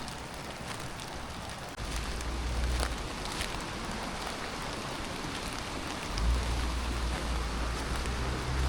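Steady rain falling, with scattered close drops ticking on a surface. A low rumble comes in briefly about two seconds in and again from about six seconds on.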